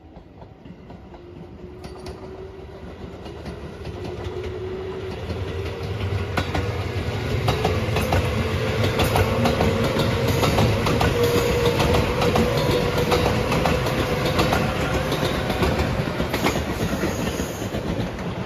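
A JR West 213 series electric local train approaching and passing close by, its wheels clicking over the rail joints. A whine rises slowly in pitch as it nears, and the sound builds for about eight seconds, stays loud, then eases slightly near the end.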